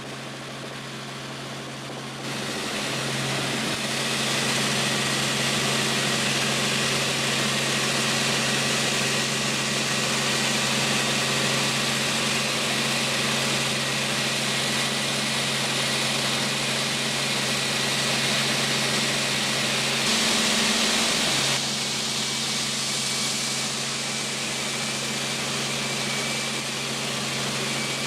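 Helicopter engine and rotor running steadily with a constant droning hum, growing louder about two seconds in.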